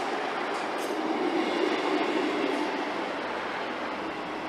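ScotRail diesel multiple unit running past along the station platform: a steady rumble of wheels on rail and underfloor engines, with a few faint clicks, easing off slightly near the end.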